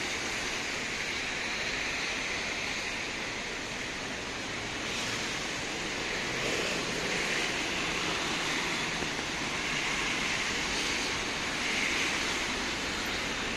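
Steady, even hiss of rain on a wet street, swelling slightly a few times.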